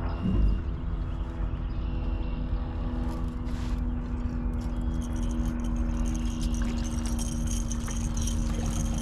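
Steady low hum over a rumble, with a thump about a quarter second in and light rattling and clinking in the second half, as a hooked catfish is brought into a fishing boat.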